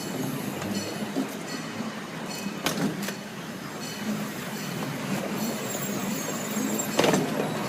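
Park ride train rolling along its track, heard from on board: a steady rumble with a few sharp clacks, the loudest one near the end.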